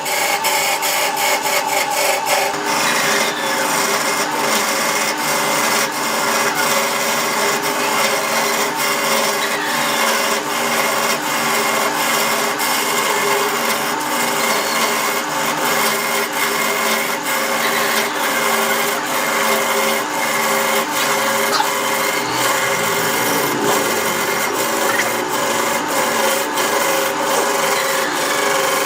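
Wood lathe running with a tool working the spinning wood: a steady scraping hiss over the machine's hum, with rapid ticking in the first couple of seconds.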